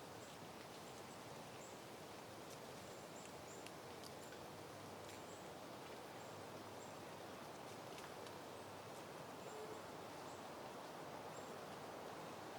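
Soft, steady wind rustling through blooming peony plants, with faint, short, high chirps dotted irregularly through it.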